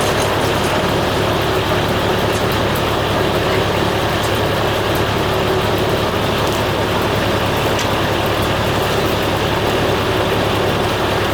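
Engine powering a Foley Belsaw M-14 circle sawmill, running at a steady speed, with faint light ticks over it.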